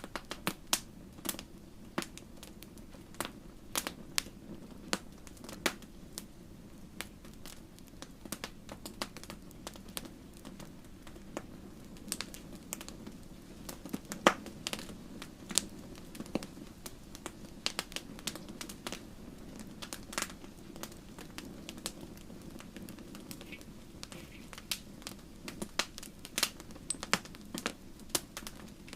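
Wood fire crackling in a fireplace: irregular sharp pops and snaps, several a second at times, over a steady low hiss of burning.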